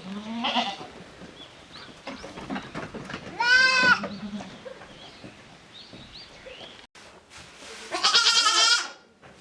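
Goats bleating: a wavering bleat about three and a half seconds in and a louder, higher one near the end, with a fainter call at the start.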